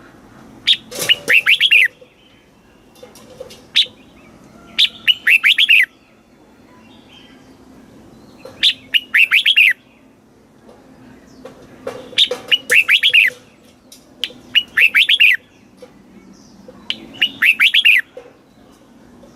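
Red-whiskered bulbul singing: short phrases of quick, falling whistled notes, repeated every couple of seconds.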